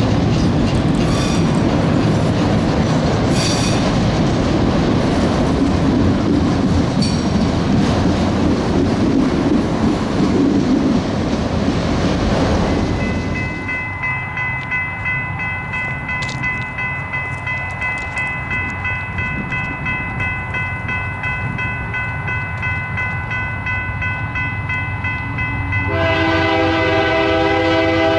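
A train passing close by, with rumbling wheels and clattering cars and a few clanks, until about halfway, when it drops away. A steady ringing tone then holds, and near the end a locomotive air horn sounds a chord.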